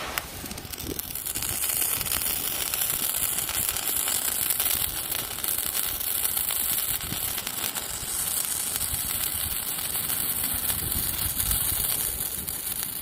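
Handheld colour-changing spark-fountain firework burning, a steady hissing spray of sparks with fine crackling that catches about a second in.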